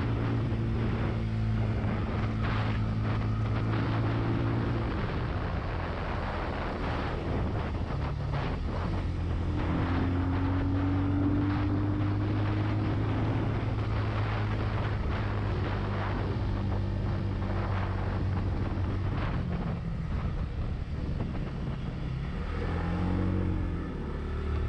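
Benelli TNT 25 motorcycle's single-cylinder engine running while riding, its note shifting several times: rising around ten seconds in, dipping and swelling again near the end. Wind rushes over the microphone throughout.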